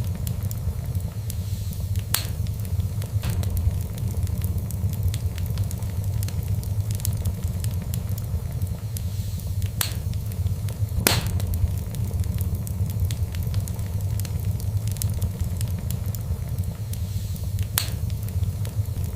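Fire in a fireplace crackling steadily over a low rumble, with scattered sharp pops; the loudest come about two seconds in, around ten and eleven seconds in, and near the end.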